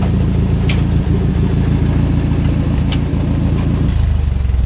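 Small farm tractor's engine idling steadily, then slowing near the end as it is switched off.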